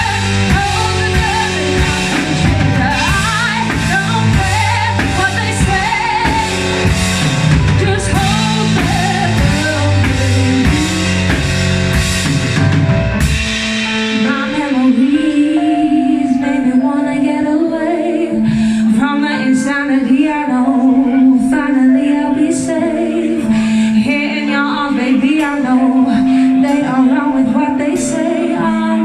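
Live band playing a rock song with a singer and drum kit. About halfway through, the drums and bass drop out, leaving a sparser, quieter-bottomed passage with a held, wavering melody line.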